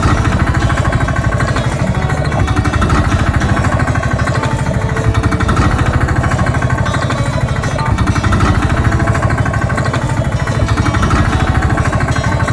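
A machine engine running steadily with a fast, even rattling pulse.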